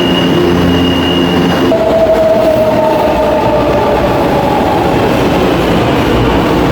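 São Paulo Metro train running on the rails, a steady rumble with an electric whine from the traction equipment. The whine changes pitch about two seconds in, its main tone then sliding slowly downward.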